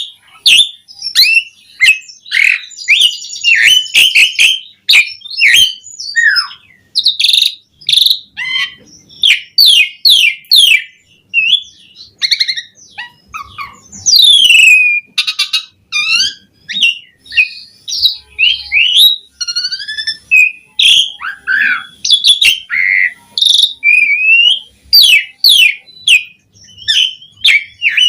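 Pied starling (jalak suren) in full song: a fast, nearly unbroken string of varied chirps, whistles and sliding notes with only brief pauses, packed with mimicked phrases.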